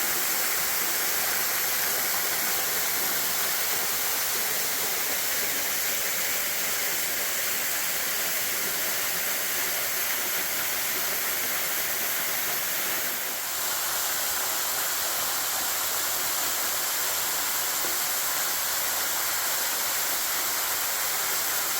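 Waterfall with heavy flow: a steady, even rush of falling water, with a brief dip about two-thirds of the way through.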